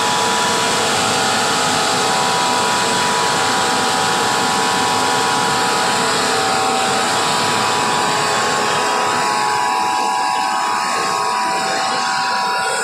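Kobelco 15 kW air compressor running steadily: a loud, even mechanical noise with a few steady whining tones over it.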